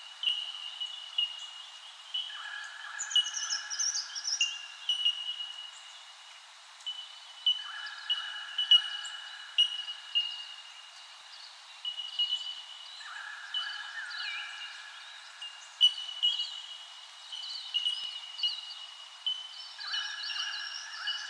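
Birdsong: several birds calling over one another. A steady high note carries many short chirps, and a lower, longer call returns every five seconds or so.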